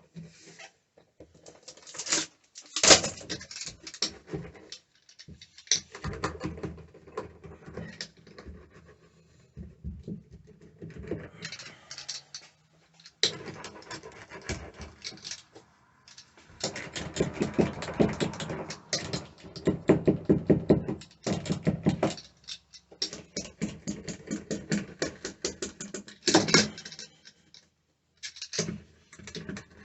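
Irregular knocks, clicks and rustling of hands-on work, with a long run of rapid clicking in the middle.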